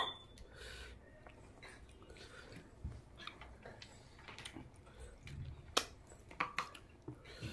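Close-miked ASMR chewing of a mouthful of rice with fish curry and egg curry: small wet clicks and smacks come at irregular intervals, with a few sharper ones near the end.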